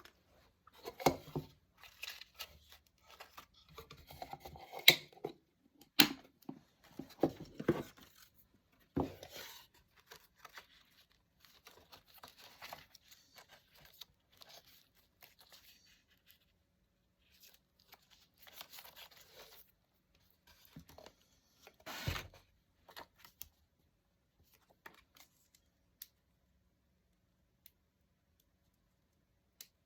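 Close paper-craft handling sounds: paper rustling and tearing, with sharp clicks and snips in irregular bursts. They are busiest and loudest in the first ten seconds, then thin out to soft rustles, with one louder burst about two-thirds of the way in and a few lone ticks near the end.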